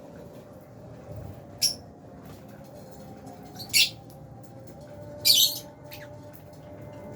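Lovebirds giving short shrill chirps: three calls about two seconds apart, the third a little longer, over a faint steady hum.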